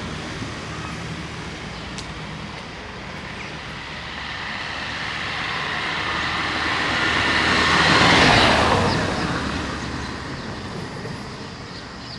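A vehicle passing close by in street traffic, growing louder to a peak about eight seconds in and then fading away, over a steady low traffic hum.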